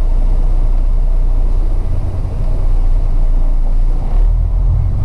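Semi truck's diesel engine and road noise while driving, a steady low rumble.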